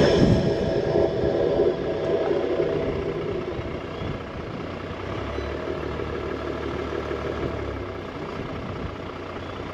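Toyota four-wheel drive's engine running as it drives slowly along a sandy track, the noise easing off over the first few seconds as the vehicle slows, then holding steady.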